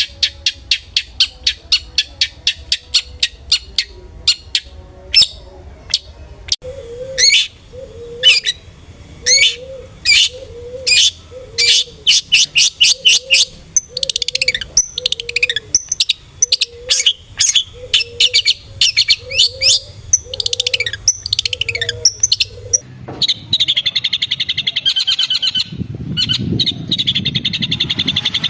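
Long-tailed shrike (cendet) calling: a fast run of sharp chirps, then sweeping high notes over a low note repeated about once a second. Near the end the song changes to a dense, rapid trill.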